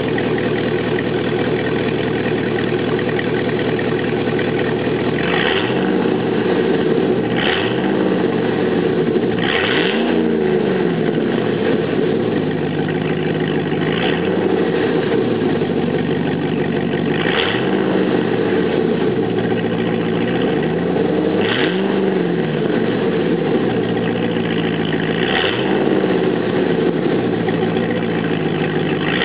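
Cadillac Escalade V8 idling through a custom quad-tip aftermarket exhaust with a deep, uneven American V8 burble, blipped about seven times to short revs that rise and drop back to idle.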